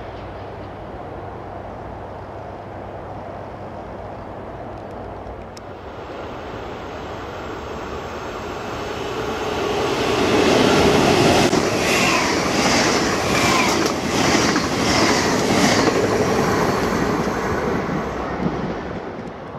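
A Dutch NS double-deck passenger train passing through a station. Its rumble builds over several seconds, then peaks with a run of regular wheel clatter, about two clacks a second, before fading away.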